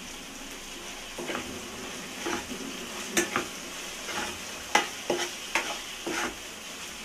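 Prawns sizzling in hot oil in a kadai while a spatula scrapes and stirs freshly added chilli and coriander powder through them. The scraping strokes begin about a second in and come irregularly, the loudest about three and five seconds in, over a steady sizzle.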